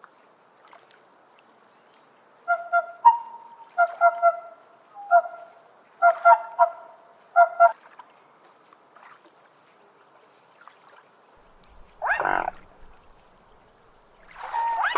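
Geese honking: a quick run of about a dozen short, nasal honks, followed after a pause by two longer, harsher calls near the end.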